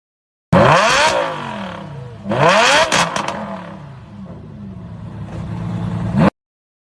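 A supercar's engine revving hard twice through a loud exhaust, the pitch climbing quickly and then sinking away each time, with a few sharp cracks at the second peak. The note builds again near the end, then cuts off abruptly.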